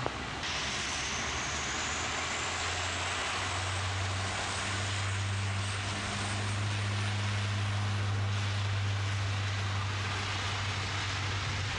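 Turboprop airliner at takeoff power on its takeoff roll: a steady engine roar with a low propeller hum that grows louder through the middle and a faint rising whine near the start.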